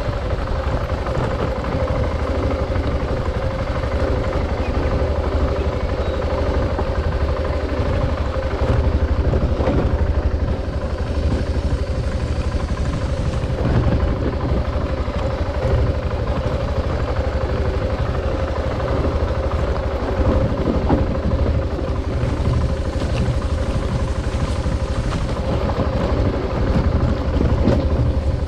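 Adventure motorcycle running steadily under way, a constant low rumble with a steady engine tone and small swells in loudness.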